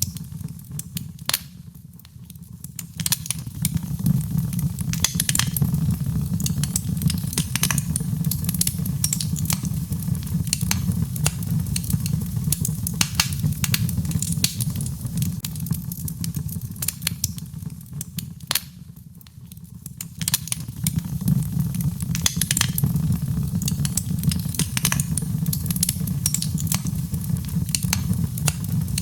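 Birchwood fire burning in a fireplace: a steady low rush of flame with frequent sharp crackles and pops from the burning wood. The fire quietens briefly twice, about two seconds in and again about two-thirds of the way through.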